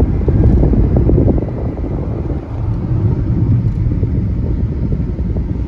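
Low rumbling road and wind noise inside the cabin of a moving electric car, a little louder for the first second and a half.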